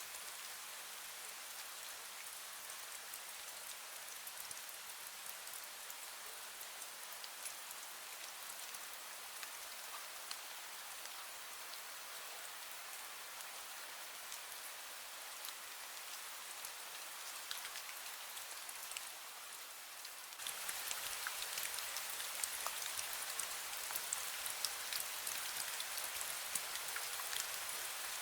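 Drizzle falling steadily, with many small drops ticking on surfaces. The rain gets suddenly louder about twenty seconds in.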